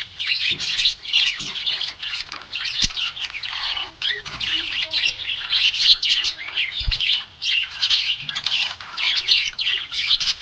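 Budgerigars chirping and chattering continuously in rapid, overlapping high chirps.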